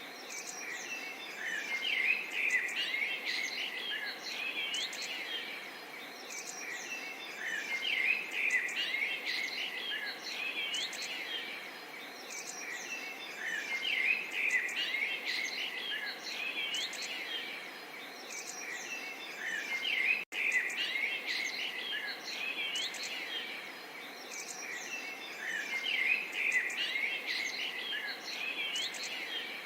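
A chorus of small songbirds chirping and twittering, many short calls overlapping and swelling roughly every six seconds, over a faint, even babble of water. The sound cuts out for an instant about twenty seconds in.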